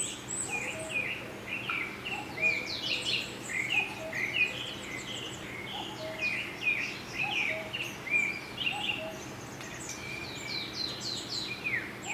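Several birds chirping and singing without a break, many short quick notes falling in pitch, over a faint steady low hum.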